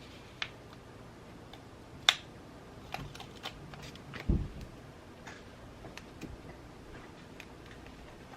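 Scattered small clicks and taps of desk journaling supplies being handled, with one sharp click about two seconds in and a soft thump a little past four seconds, over a faint steady hiss.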